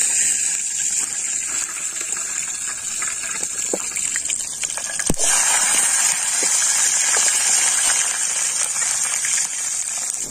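Chilies, garlic, shallots and tomato sizzling in hot oil in a steel wok: a steady sizzle with a few sharp pops, the loudest about five seconds in.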